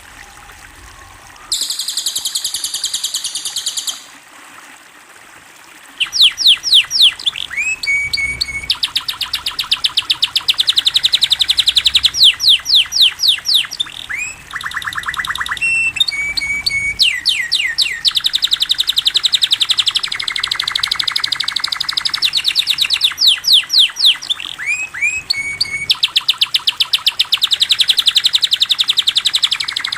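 A cililin songbird singing loudly in rapid, fast-repeating trills and chirps mixed with quick sweeping notes. A high buzzy trill comes first, then after a short pause the song runs on almost without a break.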